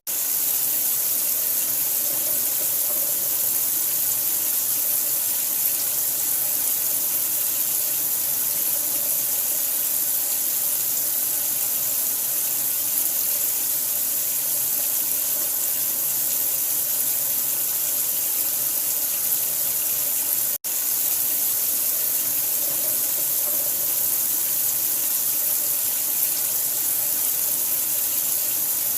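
Steady running water, an even, unchanging hiss of pouring water played as a sleep sound, broken once by a sudden split-second gap about two-thirds of the way through.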